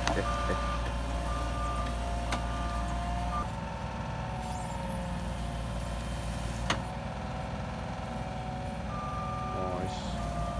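Heavy machine's engine running steadily while its backup alarm beeps on and off about once a second, with a few sharp clicks or knocks.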